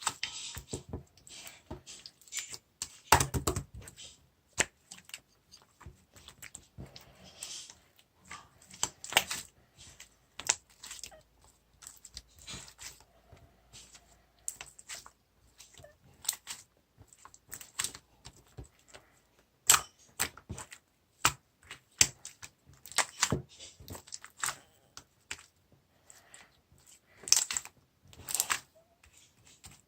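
Slime being squished and worked in the hands, giving irregular sharp clicks and pops, a few of them louder than the rest.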